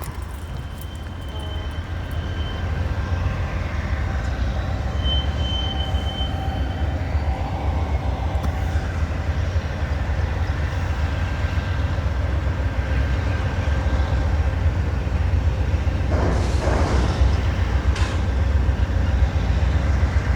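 Train rolling by with a heavy low rumble that slowly grows louder, and two brief high-pitched wheel squeals near the start.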